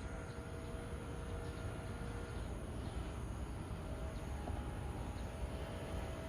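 Steady outdoor background: a low rumble with a faint steady hum above it and no distinct events.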